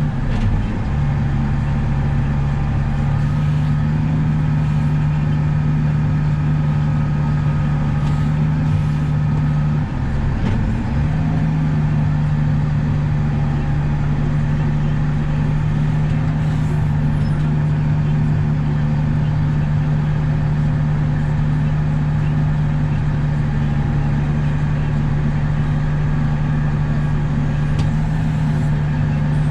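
John Deere 9760 combine running steadily under harvest load, a constant deep engine hum with a brief break about ten seconds in.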